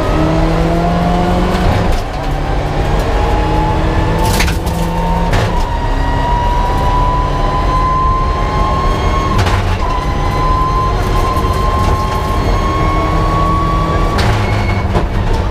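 Mitsubishi Lancer Evolution IX rally car's turbocharged four-cylinder engine heard from inside the cabin under load, its revs climbing slowly and steadily in one long pull, with a few short sharp cracks along the way.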